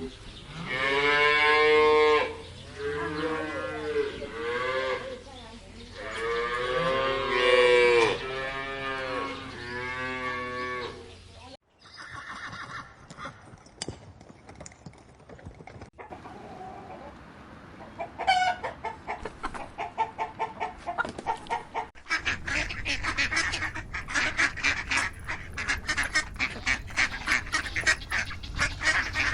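Cattle mooing: a series of long, drawn-out calls over the first eleven seconds or so. After a sudden cut there is a quieter mix of animal sounds, and from about two-thirds of the way through a rapid run of short, repeated honking calls from farm fowl.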